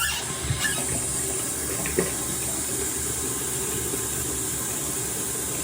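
Bathroom sink tap running steadily, water pouring into the basin, with a couple of light knocks about two seconds in.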